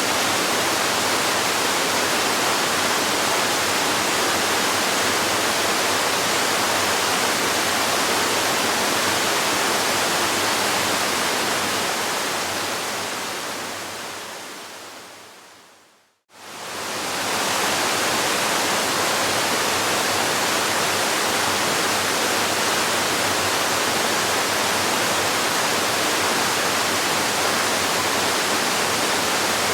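Recorded waterfall, a steady rush of falling water. About 11 seconds in it fades down to a moment of silence near 16 seconds, then swells back to full level within a second or two.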